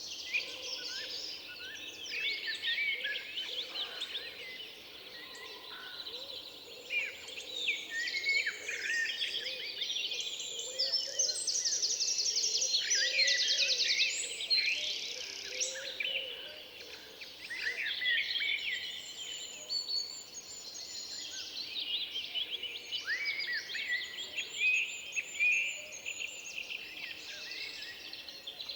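Many songbirds singing and calling at once, overlapping chirps and whistles, with a fast trill a little before halfway.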